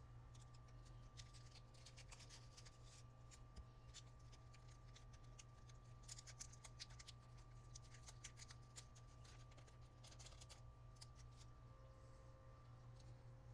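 Faint rustling and light ticks and clicks of hands handling small parts and packaging, over a low steady hum; the clicks come thickest in the middle.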